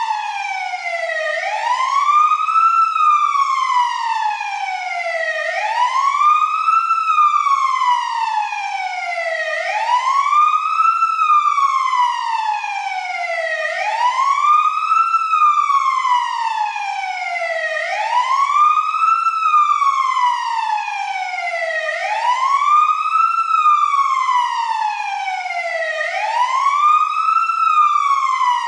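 Emergency vehicle siren sounding a slow wail: each cycle sweeps quickly up in pitch, then falls slowly, repeating about every four seconds.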